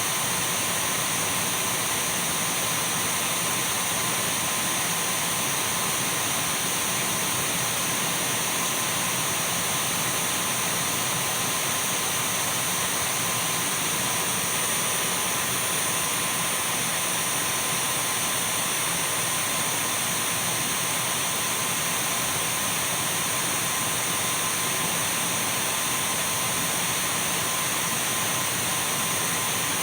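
Dyson V12 cordless stick vacuum cleaner running steadily at a constant speed: an even rush of air with thin, steady whining tones over it.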